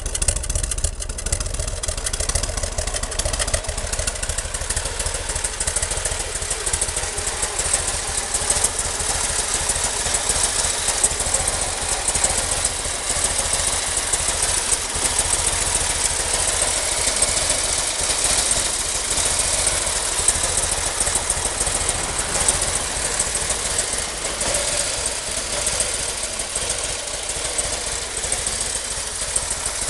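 2009 Harley-Davidson Street Glide's 1580 cc air-cooled V-twin running steadily at idle.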